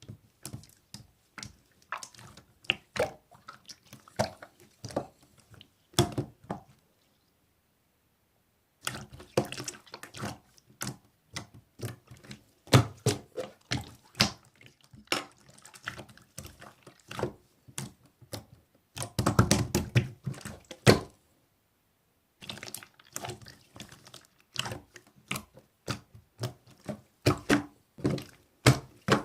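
Slime being squeezed and stretched by hand, a fast irregular run of wet clicks, pops and squelches. It breaks off twice for a second or two.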